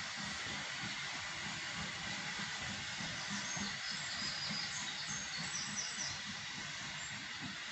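Steam locomotive giving off a steady hiss of steam, with a quick low pulsing underneath.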